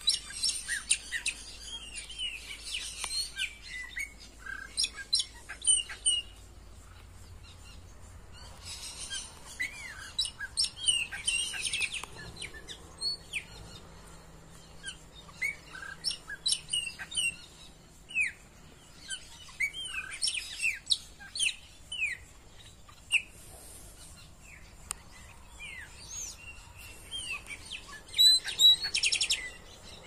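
Several birds chirping and calling in short bursts of quick, high notes that glide up and down. A loud, fast trill near the end is the loudest sound.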